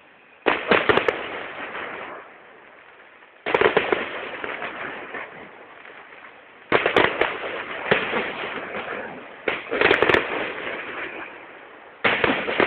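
Fireworks going off: five sudden bangs, roughly three seconds apart. Each is followed by a burst of crackling that fades away over a second or two.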